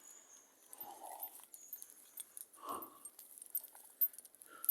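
Faint wild birds chirping, with short high notes and many quick high ticks, plus a couple of soft lower sounds.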